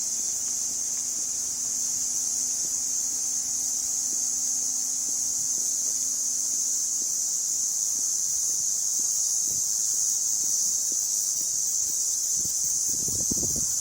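Steady, high-pitched chorus of insects, with low knocks or rustles near the end.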